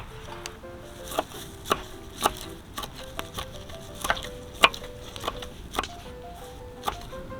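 Knife chopping parsley on a wooden cutting board: slow, sharp strokes about two a second. Soft background music with a simple melody plays underneath.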